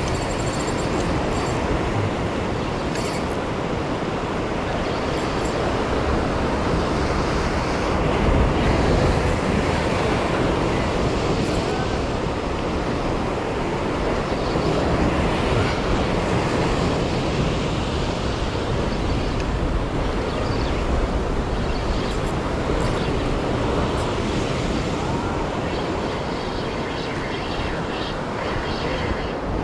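Steady, even roar of sea surf washing against a concrete tetrapod breakwater.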